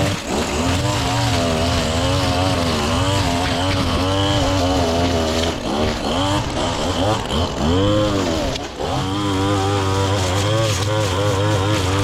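Small gasoline lawn-equipment engine running continuously, its pitch rising and dipping as the throttle is worked, with a sharp swoop up and back down about two-thirds of the way in.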